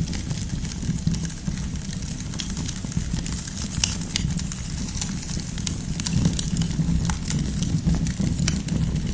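Campfire of burning firewood crackling: frequent sharp pops and snaps over a steady low rumble of the flames.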